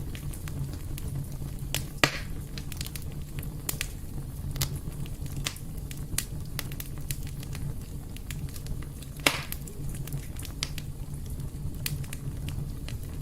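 Fire burning in a fireplace: a steady low rumble of the flames with irregular sharp crackles and pops. Two pops, about two seconds in and about nine seconds in, stand out louder than the rest.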